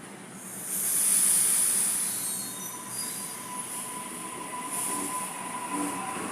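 Sydney Trains electric train's wheels squealing on the rails at the platform: a loud, high squeal swells about a second in and eases off, followed by further high squeals over a steady whine.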